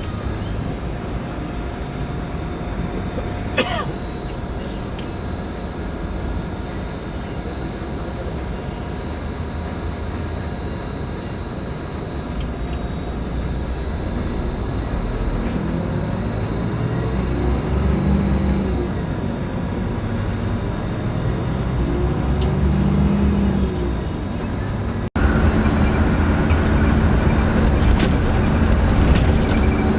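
Scania K410IB coach running, a low engine drone with road noise; its pitch rises and falls in the middle. It turns louder after an abrupt cut about 25 seconds in.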